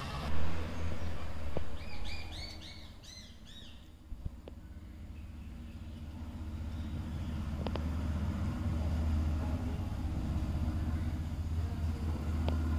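A bird calling a quick run of repeated chirps over a steady low rumble. A louder sudden sound comes just before the chirps, and a few faint clicks come later.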